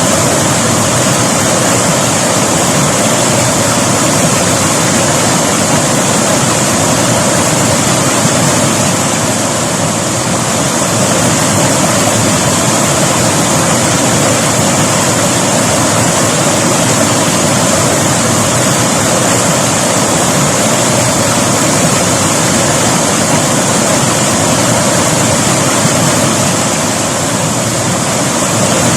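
River water flowing steadily, a dense, even hiss of moving water, slightly softer for a moment about ten seconds in.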